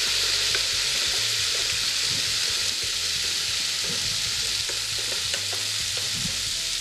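Onion, garlic and carrots sizzling steadily in oil in a hot pot, with light scraping and small ticks as damp green freekeh is pushed off a stainless steel colander with a wooden spoon and drops onto the vegetables.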